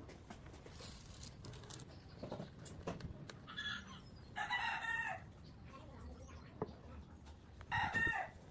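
Chickens calling: three short crowing calls, the longest just under a second, around the middle and near the end, over scattered light clicks and knocks.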